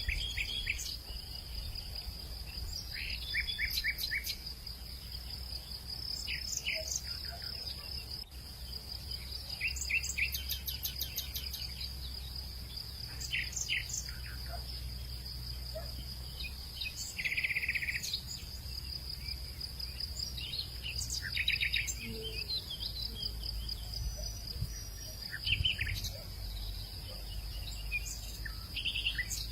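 Outdoor nature ambience: a steady high-pitched insect trill with short bird chirps and calls scattered throughout, over a low rumble.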